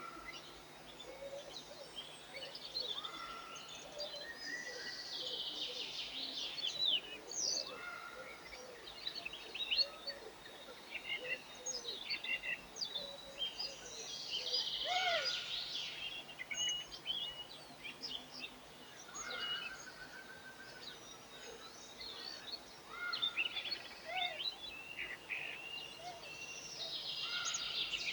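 Several garden birds chirping and singing at once, short overlapping calls and trills, thickening into denser bursts about five seconds in, around fourteen seconds and near the end.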